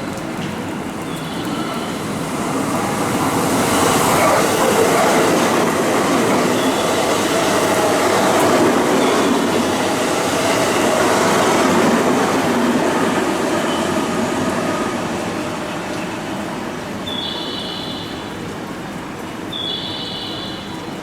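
A JR West electric train running along the station tracks, with the rumble of wheels on rail. The rumble swells a couple of seconds in, stays loud through the middle and fades away over the last few seconds.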